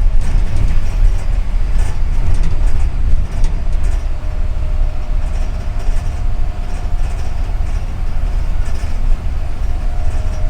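Inside a moving double-decker city bus: a steady low rumble of engine and road, with the body and fittings rattling now and then. A faint steady whine joins from about halfway through.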